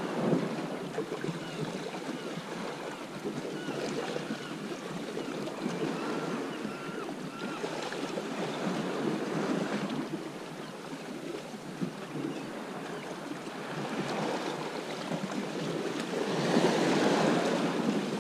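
Sea waves washing and breaking on the shore, with wind on the microphone; the wash swells louder about two seconds before the end.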